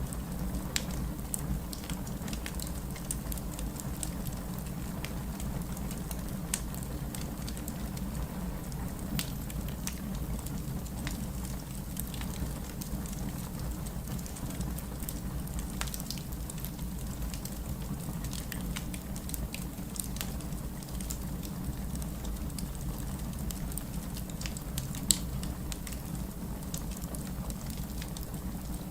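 Steady heavy rain with a wood fire crackling over it, short sharp pops scattered throughout and one louder pop near the end.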